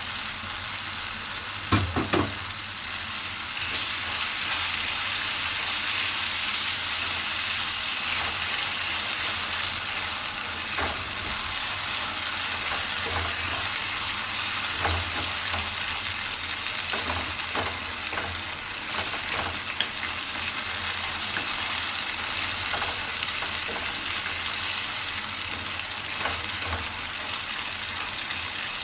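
Masala in hot oil in a pan, sizzling steadily as whisked curd (yogurt) is stirred into it. A spoon knocks and scrapes against the pan a few times.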